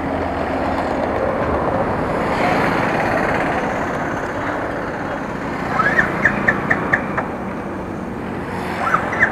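Road traffic noise that swells and eases as a vehicle goes past, with a run of short high chirps about six seconds in and again near the end.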